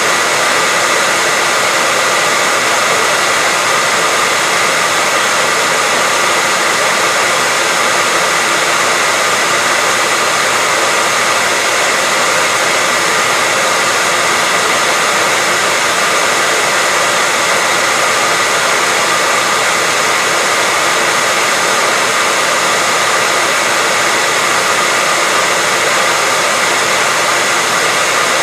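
Hair dryer running steadily: a constant airy hiss with a faint steady whine, used as white noise.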